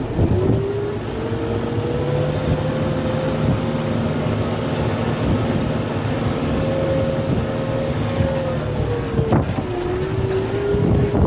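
Kubota M6-141 tractor's diesel engine running steadily, its pitch dropping sharply about nine seconds in and climbing back, with a few sharp knocks.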